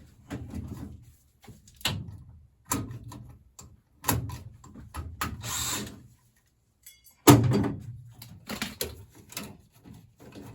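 Irregular knocks, clunks and scraping from handling and taking apart an old furnace's sheet-metal parts. There is a scrape just after five seconds and a hard knock at about seven seconds, the loudest sound.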